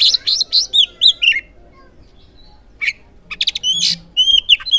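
Oriental magpie-robin (kacer) singing a rapid run of sharp chirps and curved whistled notes in two bursts, with a pause of about a second and a half between them.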